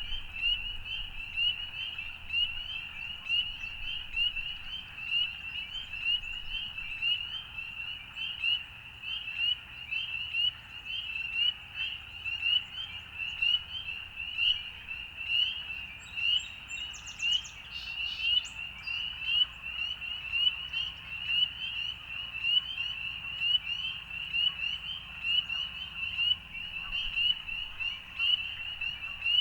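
A dense chorus of frogs: many short, high, slightly rising calls overlap continuously, with the level pulsing as individual callers stand out.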